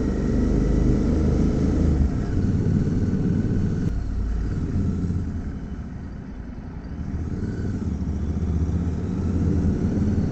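Royal Enfield 650 parallel-twin motorcycle engine running at a steady road pace inside a road tunnel, a dense low rumble. It eases off about five seconds in and builds up again.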